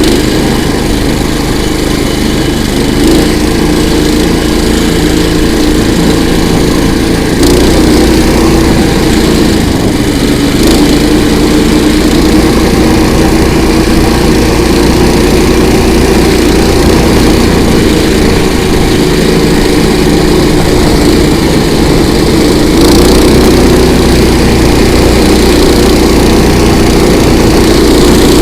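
Small petrol engine of a KOiRA all-season motor tow running steadily under load as it is driven, its revs stepping up a little about seven seconds in and again near the end.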